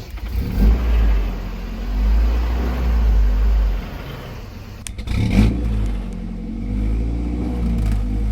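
An off-road 4x4's engine revs in repeated surges as it crawls over a rock obstacle, with a sharp knock about five seconds in.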